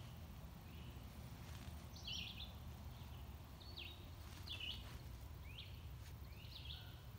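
A small bird chirping: a run of short, quick calls about once a second, starting about two seconds in, over a low steady rumble.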